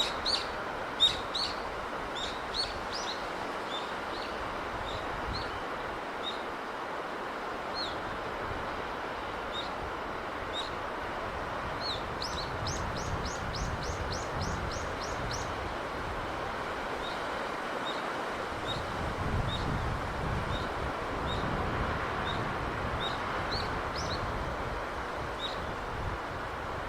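Steady hiss of sea breeze and surf, swelling now and then, with small birds chirping over it: scattered single chirps and a quick run of about a dozen notes near the middle.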